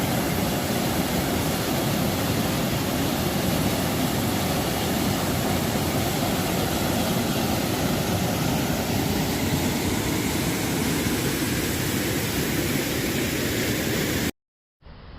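Loud, steady roar of a waterfall's falling water, an even rushing with no rhythm, cutting off abruptly about fourteen seconds in.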